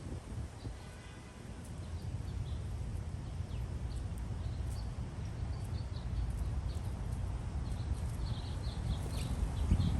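Outdoor ambience: a steady low rumble with short, high bird chirps that grow more frequent near the end.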